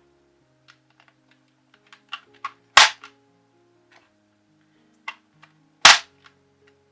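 Sharp plastic snaps of computer keyboard keycaps being pressed onto the keyboard, a few small clicks and two loud snaps about three seconds apart, over faint background music.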